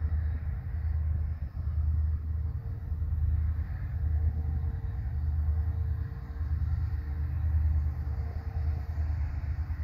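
Low, steady rumble of an approaching goods train's locomotive, swelling and dipping, with a faint hum above it.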